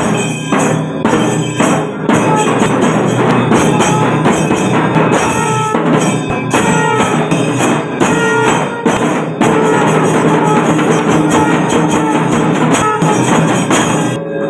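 Kailaya melam, the Shaiva temple drum-and-cymbal ensemble, playing a fast, loud, dense beat, with held pitched notes sounding over it now and then. It cuts off suddenly at the end.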